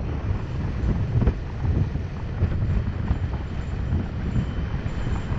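Wind buffeting the microphone over a steady low rumble, with scattered short knocks and rattles from an electric mountain bike descending a dirt trail.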